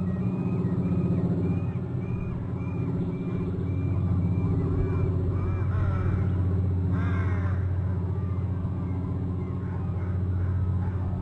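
Wild birds calling: a quick run of short, arched calls, about two a second, then a denser burst of harsher calls about six to seven seconds in, over a steady low hum.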